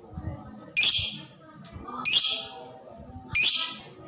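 A lovebird giving three loud, harsh, shrill calls, evenly spaced about a second and a bit apart, each cut off short.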